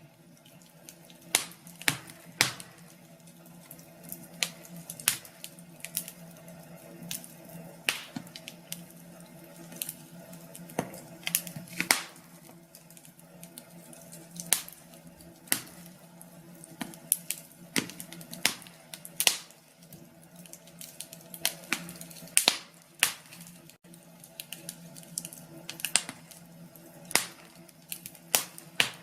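Wood fire crackling in a fireplace: sharp, irregular pops and snaps, about one or two a second, over a faint steady low hum.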